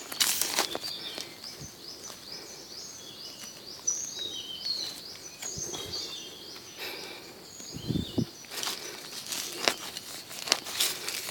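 Small birds chirping outdoors: many short, falling high notes repeated all through. Over them come bursts of rustling and crackling, loudest near the start and again in the last few seconds.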